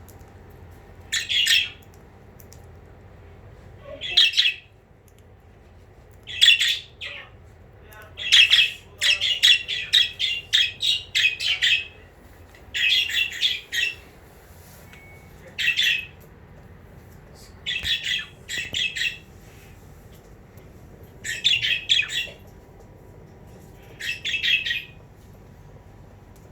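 Budgerigars calling in short bursts of quick, chattering calls every few seconds, with a longer unbroken run of calls around the middle.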